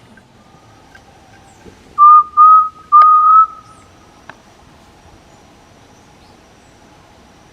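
Three loud, clear whistled notes at one pitch: two short ones, then a longer one that rises slightly at the end. A person whistling close by.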